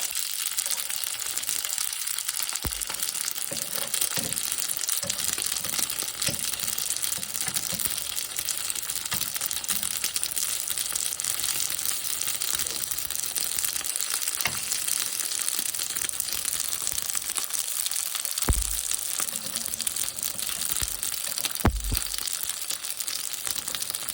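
Dumplings frying in a pan, a steady sizzle throughout, with a few short low knocks about three seconds in and again near the end.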